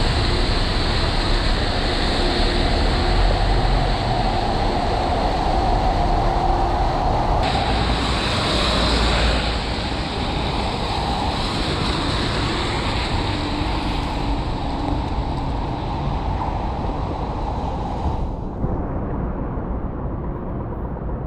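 Steady rush of heavy pouring rain mixed with passing city traffic, with low rumbling noise on the microphone. The high hiss drops away sharply about 18 seconds in.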